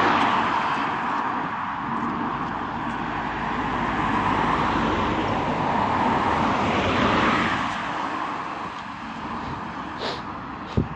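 Cars passing on a road close by: tyre and engine noise swells and fades as one passes near the start and another about five seconds in. A short sharp click comes near the end.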